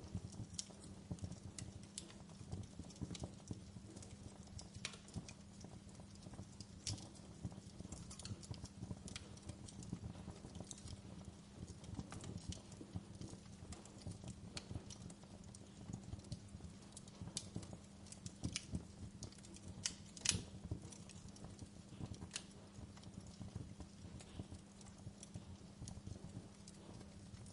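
Wood fire crackling in a fireplace: irregular sharp pops and snaps over a soft, steady low rumble, with one louder pop about twenty seconds in.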